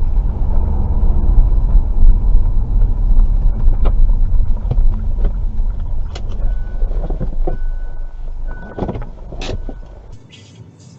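Low rumble of a car driving, as picked up by a dashcam, fading over the second half. A few sharp knocks and a thin steady high tone lasting about two seconds come through near the end. The sound cuts away abruptly about ten seconds in.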